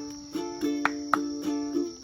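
Ukulele strummed in a steady rhythm of chords, with a steady high insect trill behind it.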